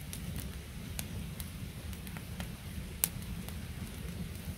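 Wood campfire crackling: scattered sharp pops and snaps, the loudest about three seconds in, over a steady low rumble.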